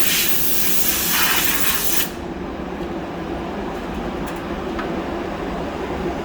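Compressed-air blow gun hissing as a part gets its final blow-off before powder coating, cutting off sharply about two seconds in. A steady low machine hum carries on underneath.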